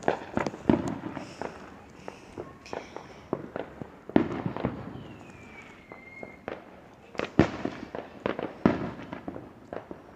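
Fireworks going off: a string of irregular bangs and crackling pops, the loudest about four, seven and a half and nine seconds in, with a falling whistle about five seconds in.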